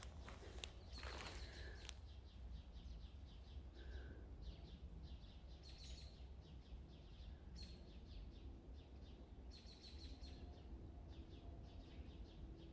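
Quiet forest ambience: a small bird gives series of short, high chirps, about four a second, over a faint low rumble. Brief rustling comes near the start.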